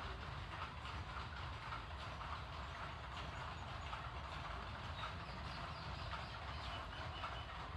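Water streaming onto plant leaves: a steady, dense splashing patter over a low, even rumble.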